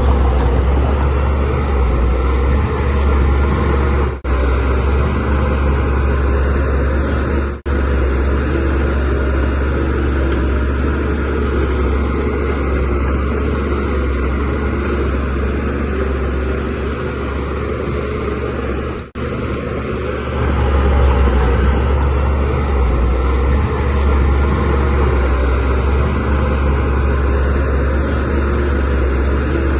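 Shantui DH17C3Pro bulldozer's diesel engine running steadily under working load, getting louder about two-thirds of the way through. The sound cuts out suddenly and briefly three times.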